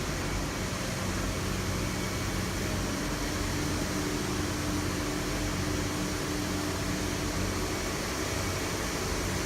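Steady whirring air noise with a low, even hum from running machinery, unchanging throughout.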